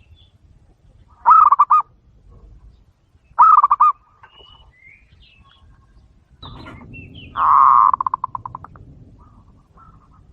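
Zebra doves (perkutut) cooing: three bursts of rapid, stuttering coos, the last one longest and trailing off into quick pulses. Faint high chirps sound between them.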